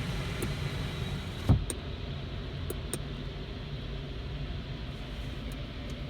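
Steady low car-engine hum with a hiss over it, broken by a single sharp thump about a second and a half in. After the thump the hiss drops away and only the quieter low hum goes on.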